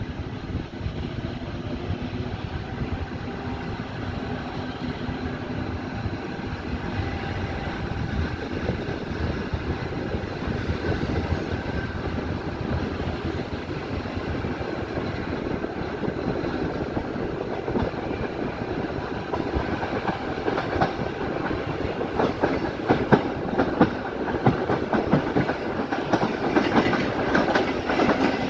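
A passenger train's sleeping car pulling out of a station and gathering speed, heard through an open window: a steady rumble and hiss from the running gear. In the last several seconds the wheels' clickety-clack over rail joints and points comes faster and louder.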